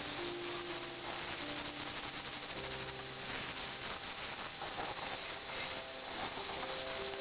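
A steady hiss that rises and falls a little, with faint background music of held notes underneath.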